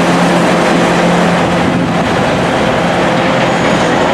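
Passenger train running past close by on a station platform: a loud, steady rumble of wheels on rails with a steady hum.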